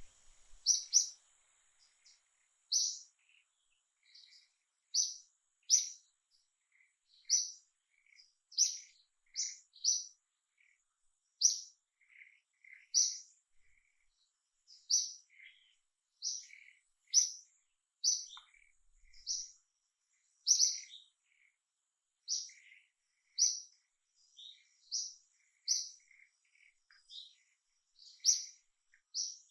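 Repeated short, high-pitched chirps, one every half second to second and a half.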